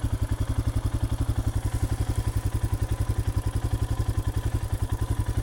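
Royal Enfield Himalayan's 411 cc single-cylinder engine running steadily at low revs, an even thumping of about twelve beats a second.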